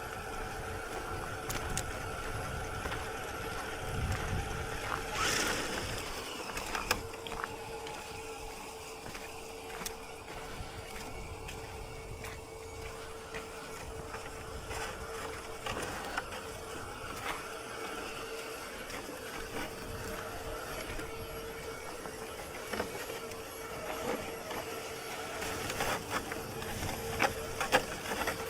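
Electric motor and gear drive of a CEN F450 radio-controlled scale truck whining steadily as it crawls along a trail, with scattered clicks and knocks.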